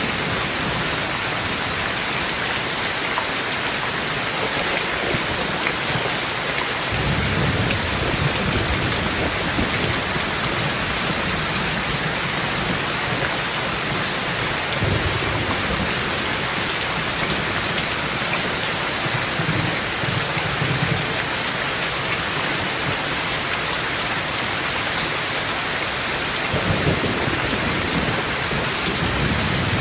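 Thunderstorm: steady heavy rain, with low rolls of thunder rumbling up and fading away several times.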